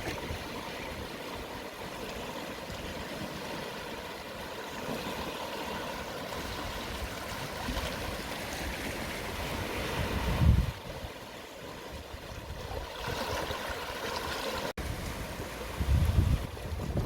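Gentle sea waves washing over a shore at low tide, a steady hiss of water that swells and eases. Wind buffets the microphone in low rumbles, about ten seconds in and again near the end.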